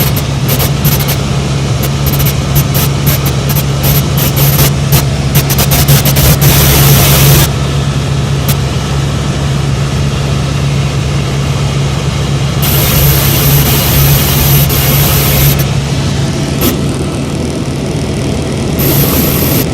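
Helicopter running, a loud steady drone of rotor and turbine engine, with crackling in the first several seconds.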